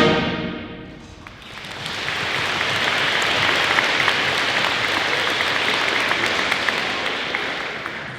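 The last of a school band's brass chord cuts off and echoes away in a gym. Then the audience applauds, starting about a second and a half in and fading away near the end.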